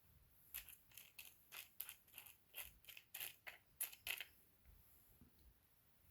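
Handling noise from a parcel of small rough opal chips: a quick run of about a dozen light clicks and rustles lasting some three and a half seconds.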